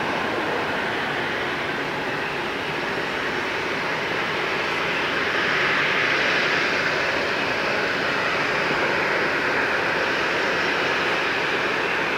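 Jet engine noise from a Boeing 737-800's CFM56 turbofans, a steady rushing hiss that swells slightly about halfway through.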